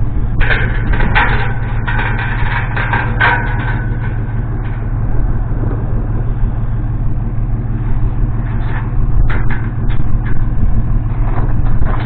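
A vehicle engine idling with a steady low hum, with bursts of clinks and knocks about half a second to three and a half seconds in and again around nine to eleven seconds in.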